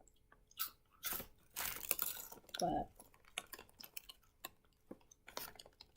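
Chewing and crunching on sea salt caramel Beaver Nuggets, caramel-coated corn puffs, in short scattered crunches, with a single spoken word about halfway through.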